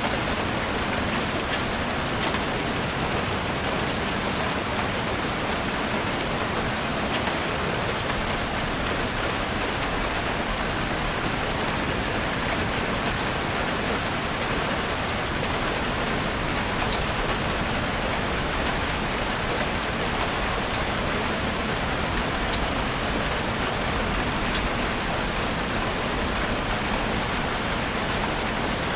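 Heavy rain drumming steadily on a roof, a dense even hiss with many fine drop ticks.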